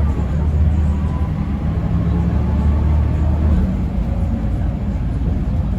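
Mercedes-Benz O405N2 city bus running while in motion, heard from inside the cabin: a steady low engine drone with a faint whine above it, the drone easing a little after about three and a half seconds.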